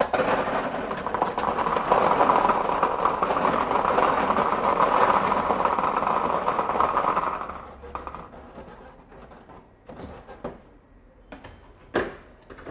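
Numbered draw balls rattling and tumbling in a lottery drum or ball cage. The rattle starts suddenly, runs for about seven seconds, then dies away, leaving a few clicks and knocks as a ball is taken out.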